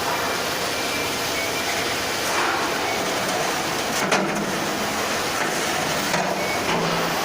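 Steady workshop machine noise, with a single sharp knock about four seconds in.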